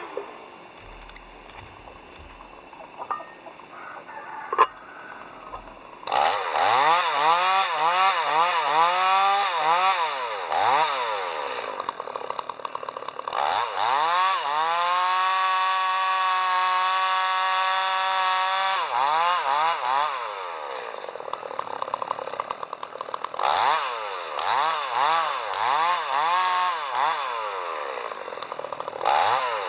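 Chainsaw starting about six seconds in, revving up and down in quick blips. It then holds at a steady high speed for about four seconds mid-way, as when cutting, before going back to short revs near the end.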